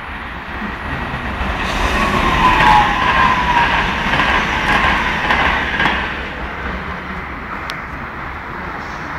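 Passenger train passing through a station at speed. Its rumble builds, is loudest about three seconds in with a whine that drops a little in pitch, then fades as it goes away.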